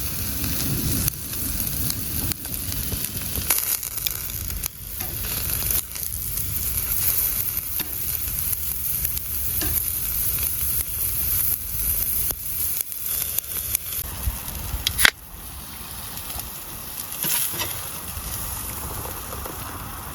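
Food sizzling and frying in a hot pan, with crackles and spatters throughout. About three quarters of the way through comes a sharp click, after which the sizzling is quieter.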